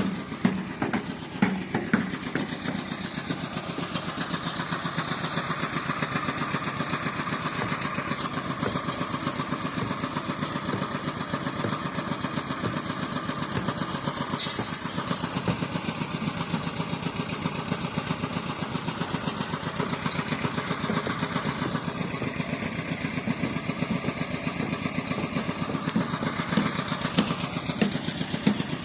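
An engine running steadily at a construction site, with rain falling. There are a few knocks in the first two seconds and a brief high hiss about halfway through.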